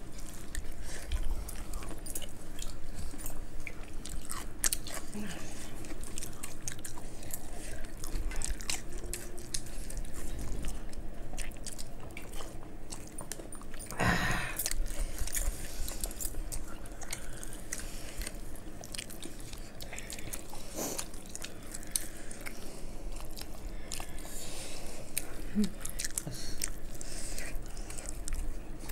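People chewing and eating with their fingers, close and wet, with many small mouth clicks and smacks as they chew fried rice and veg Manchurian. About halfway through comes one short, strong puff of breath blown out.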